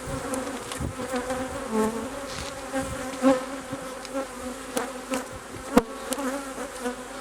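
Honey bees buzzing around an opened hive, a steady hum of many wings. A few sharp taps sound over it, the loudest about six seconds in.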